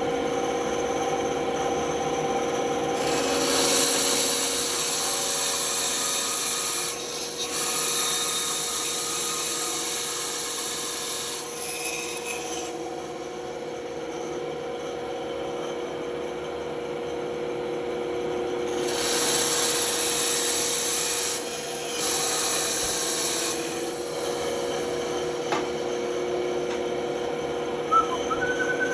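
Band saw running with a steady hum while its blade cuts through wood, the cutting hiss coming in several stretches of a few seconds each.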